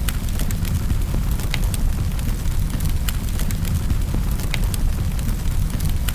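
Wood fire crackling in a fireplace: irregular sharp pops and snaps, roughly two a second, over a steady low rumble of the burning fire.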